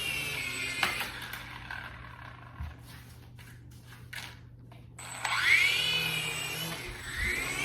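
Toy helicopter drone's small electric rotor motors whining. The whine stops with a knock about a second in, then spins back up with a rising whine about five seconds in.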